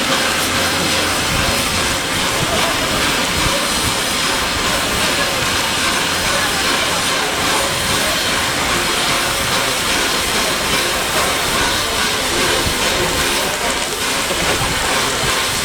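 Steam locomotive letting off a steady, loud hiss of steam.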